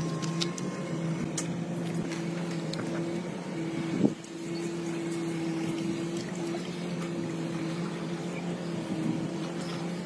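A motor running with a steady hum, with a brief sharp sound about four seconds in.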